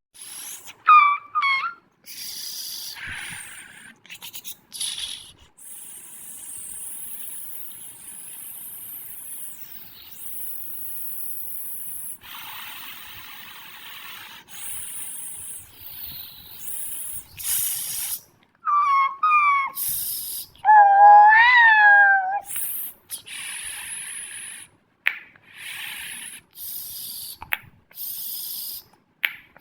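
A string of short cartoon sound effects, one after another: bursts of hissing and several pitched, wavering animal-like calls, the loudest a long wavering call about 21 seconds in.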